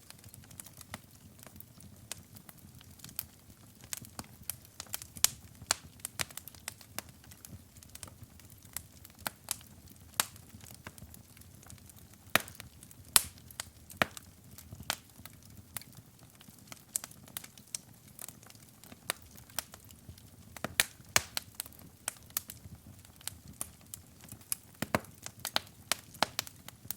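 Wood fire burning in a fireplace, crackling with frequent sharp, irregular pops and snaps over a faint low rumble of flames.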